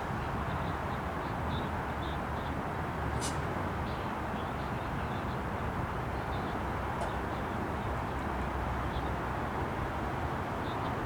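GO Transit commuter train giving a steady rumble and noise at the station, with faint bird chirps over it. A sharp click about three seconds in.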